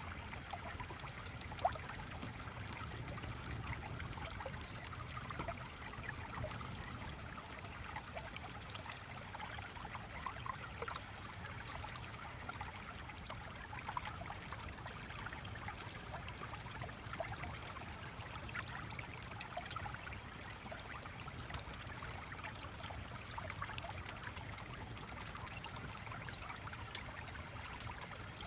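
Gently flowing stream: a steady babble of water with many small trickling ticks. A single sharp click stands out about one and a half seconds in.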